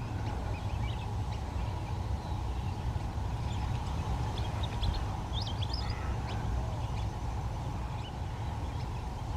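Short, high bird chirps scattered over a steady low rumble, with a quick run of chirps about five seconds in.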